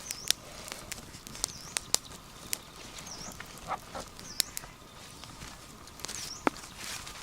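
Short high animal chirps, about five of them, spaced a second or so apart, over scattered sharp clicks and knocks.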